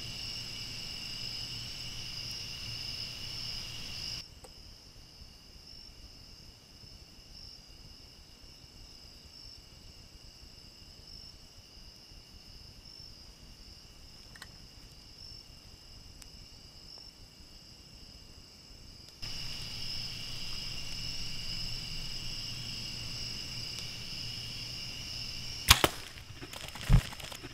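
Steady evening chorus of crickets or katydids, a high even buzzing that turns fainter for a long stretch in the middle. Near the end a compound bow shot: a sharp crack, then a second sharp hit about a second later.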